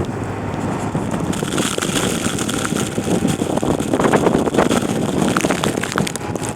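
Chevrolet Niva driving through snow, its engine running under the dense, crackling noise of the tyres churning through snow.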